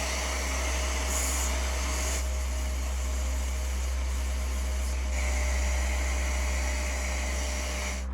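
A machine running steadily: a constant low hum under a loud even hiss.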